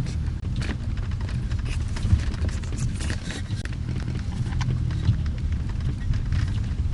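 Steady low rumble of a car's engine and road noise heard from inside the car, with scattered light clicks and taps.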